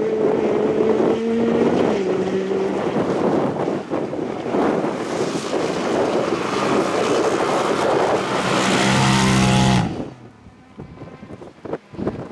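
Off-road rally car engine at high revs passing close on a stage, with gravel and tyre noise; the sound cuts off abruptly about ten seconds in, leaving quieter wind noise on the microphone.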